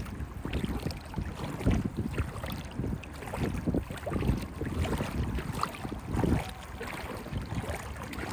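Footsteps wading through water about a foot deep, sloshing and splashing with each stride, with wind buffeting the microphone.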